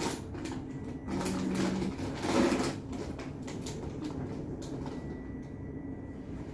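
Small objects being handled and packed into a handbag: scattered light clicks, knocks and rustling, with a short burst of hiss-like rustle about two seconds in.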